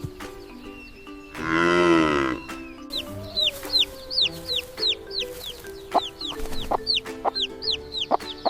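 A single loud farm-animal call, about a second long with a pitch that rises and falls, over gentle background music, followed by a run of short high chirps repeating about twice a second.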